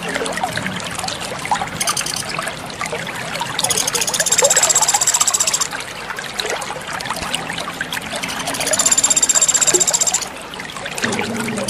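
Water trickling and splashing steadily, like a small stream or fountain. A high, buzzing trill comes in three times, each lasting about two seconds.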